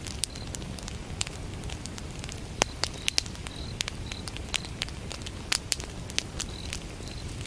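Wood fire crackling with irregular sharp pops over a steady low rumble, while crickets chirp in short, high pulses in small groups.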